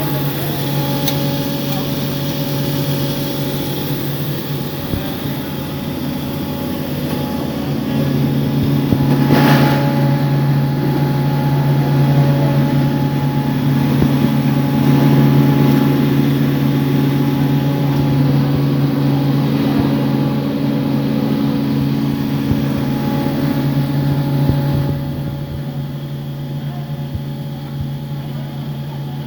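Cattle feed grinder machine running with a steady mechanical hum. It gets louder about eight seconds in, with a single sharp knock at that point, and eases off again near the end.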